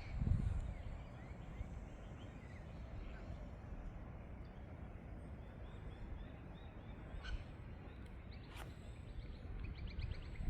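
Wild birds calling: scattered short chirps through the middle and a fast run of repeated notes near the end, over a steady low rumble of outdoor background noise.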